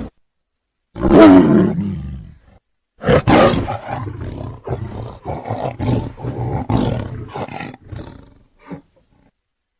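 Tiger roaring: one loud roar about a second in that falls in pitch, then after a short gap a run of shorter roars that trail off near the end.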